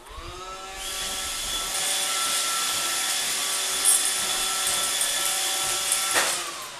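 Roomba robot vacuum's motors spin up with a rising whine, then run steadily with a loud hiss of suction. About six seconds in the whine falls and the machine winds down to a stop.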